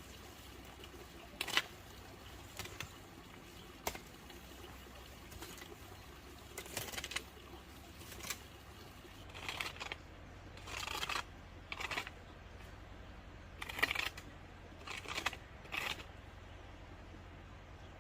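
Irregular short scrapes and clicks of hand work, about a dozen in all, coming more often in the second half.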